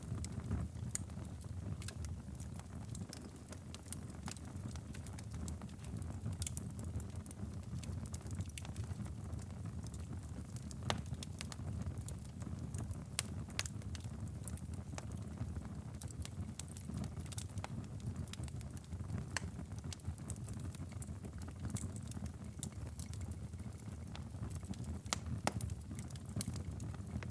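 Wood fire crackling and popping in a fireplace, with frequent sharp irregular snaps over a steady low rumble.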